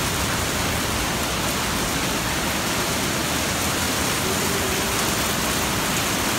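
Steady rain falling on paving, an even hiss with no let-up.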